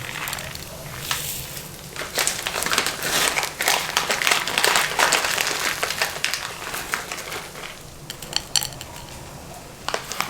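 Crinkling and rustling handling noise with many small clicks and taps, busiest about two to five seconds in.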